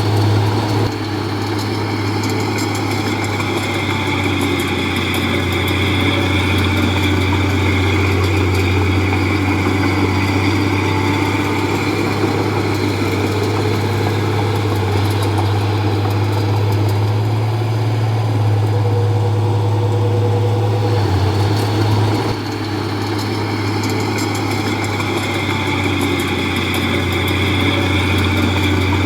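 Komatsu D31P bulldozer's diesel engine running steadily.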